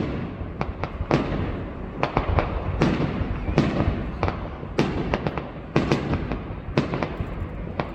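High-altitude aerial fireworks shells bursting in a quick, irregular series of sharp bangs, about two a second, each trailing off into a rumbling echo that blends into a continuous low rumble.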